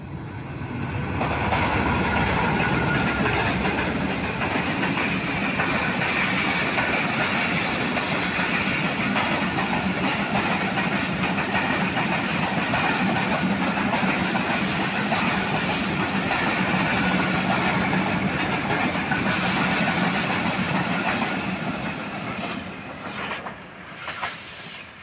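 Passenger train hauled by a GE U40 diesel-electric locomotive running through a station at speed. The locomotive comes up over the first second or two, then a long steady run of coach wheels clattering over the rail joints, fading away near the end.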